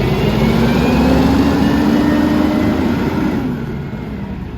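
Mack MRU garbage truck's diesel engine revving up, its pitch rising for about three seconds and then dropping away.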